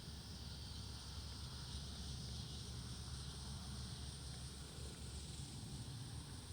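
Steady woodland ambience: wind through the trees, with a low rumble of wind on the microphone and a faint, even hiss higher up.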